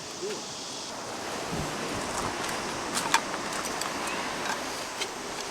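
Steady rush of a mountain stream flowing over rocks, with a few faint clicks about three seconds and five seconds in.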